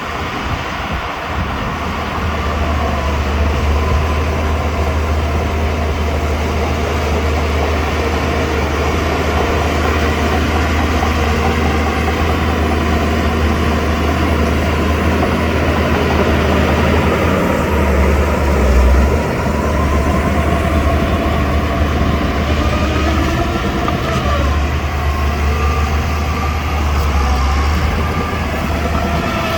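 Shantui DH17C2 crawler bulldozer working: its diesel engine runs steadily under load with the metallic clatter and squeal of its steel tracks, swelling briefly louder a little past halfway.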